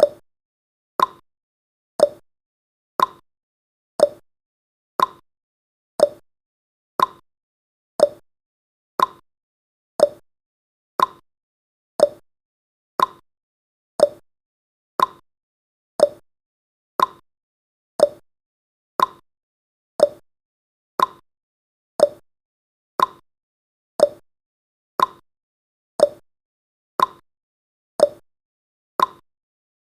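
Countdown timer's clock-tick sound effect, one short, sharp tick every second at an even pace.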